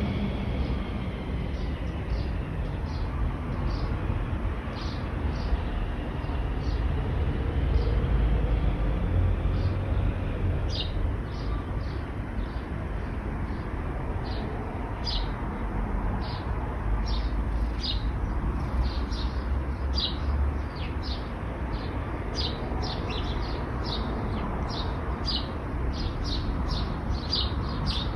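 Steady rumble of road traffic with a small bird chirping over it in short, repeated notes. The chirps are spaced out at first and come quickly, several a second, from about a third of the way in.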